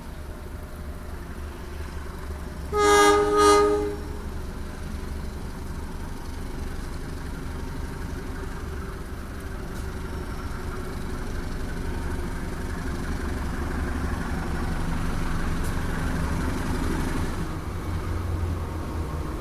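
Diesel locomotive horn of an Indonesian passenger train sounding two short blasts close together about three seconds in. It is followed by the steady rumble of the train running, which grows gradually louder and eases off near the end.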